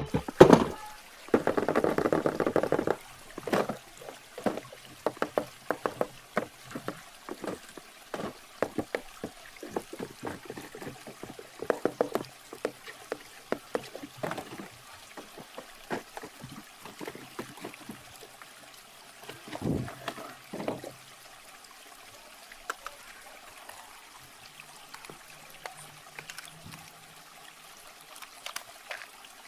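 A toy RC car being unboxed: packaging handled and crinkled, with many separate clicks and taps and two denser spells of rustling, one about a second in and a shorter one about two-thirds of the way through.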